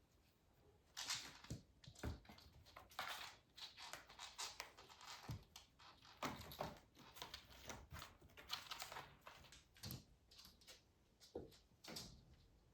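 Kittens playing with toys: quiet, irregular light taps, scrabbling and rustling that come and go in quick clusters.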